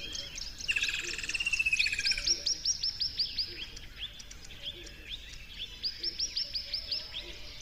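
Songbirds chirping and singing: fast runs of short descending chirps and trills, one run about two seconds in and another about six seconds in.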